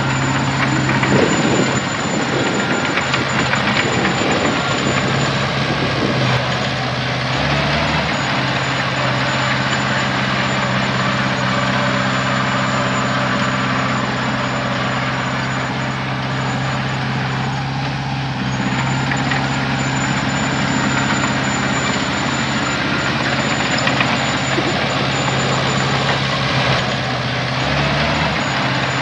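Heavy diesel engine of earthmoving machinery running steadily at a low, even speed, its pitch shifting slightly a few times.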